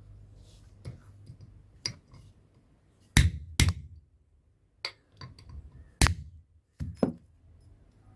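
Hammer striking metal on an anvil in irregular blows with a clinking ring: a few light taps, then two loud strikes close together about three seconds in and several more spread through the rest.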